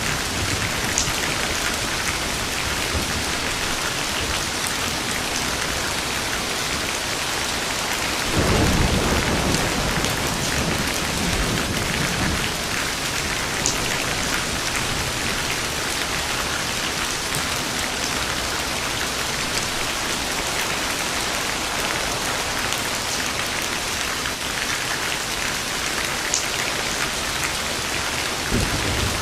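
Steady heavy rain, with a roll of thunder about eight seconds in that lasts a few seconds. Another low rumble starts right at the end.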